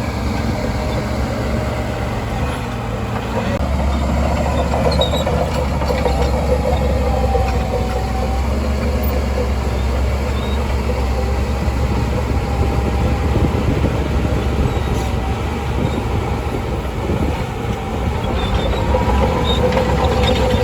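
Shantui DH17C2 crawler bulldozer's diesel engine running steadily, growing louder and heavier about three and a half seconds in, with a wavering whine over the engine.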